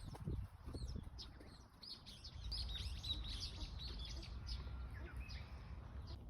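Small birds chirping: many quick, high chirps, busiest about midway, over a low steady rumble.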